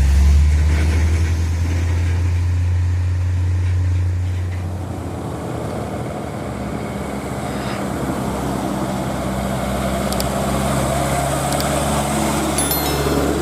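Heavy truck's diesel engine running under load on a steep climb, a deep low note that is loudest for the first four seconds or so and then eases off. A steadier, somewhat higher engine note and road noise carry on after it.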